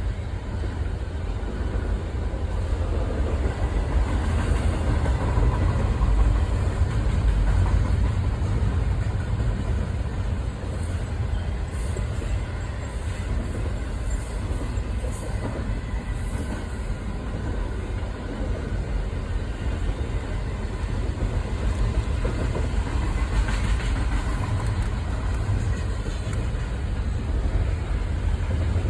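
Train rolling past steadily, its rail cars running over the track with a continuous low rumble and faint steady ringing tones from the wheels.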